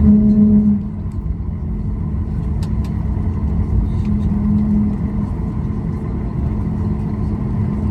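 Cabin noise inside a Boeing 737 on the ground after landing: a steady low rumble with a constant hum, a little louder for the first second and then settling.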